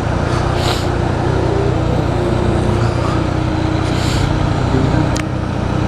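Yamaha FZ-09's inline three-cylinder engine running at a steady pace while riding, with wind noise.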